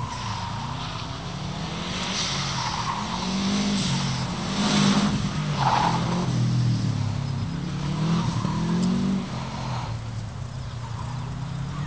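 Subaru Impreza WRX's turbocharged flat-four engine revving up and dropping back again and again as the car is driven hard through tight turns, loudest in the middle as it passes closest.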